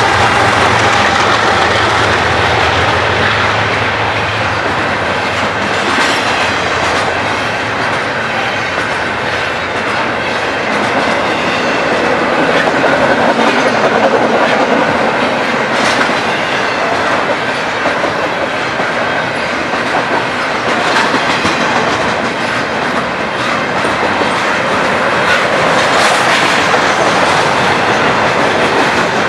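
Freight train cars rolling past close by: a steady, loud rumble with the wheels clicking over the rail joints and brief faint wheel squeals.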